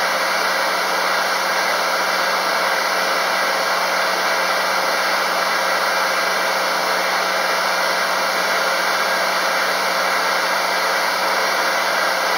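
FKD 500 double-arbor circular sawmill running, a steady even whir with a constant low hum underneath.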